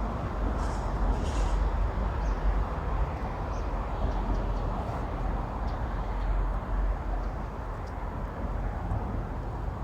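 Steady outdoor background noise with a heavy low rumble, with a few faint high chirps about a second in.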